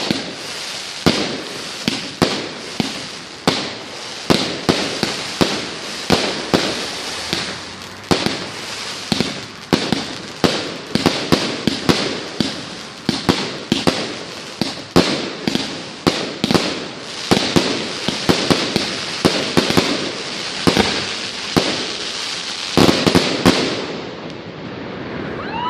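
Fireworks display: aerial shells bursting in rapid, continuous bangs over a crackling haze. A cluster of the loudest bangs comes about 23 seconds in, then the bursting dies away near the end.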